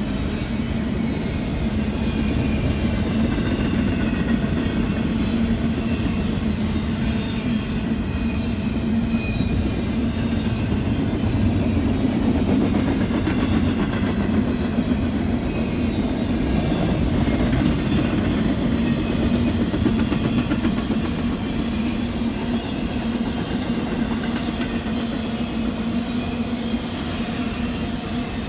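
Double-stack intermodal freight train's well cars rolling past: a steady rumble and clatter of steel wheels on rail with a constant hum, easing slightly as the last car goes by near the end.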